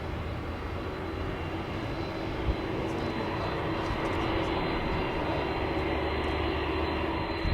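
Jet airliner engines running, a steady rush with a thin high whine, growing gradually louder.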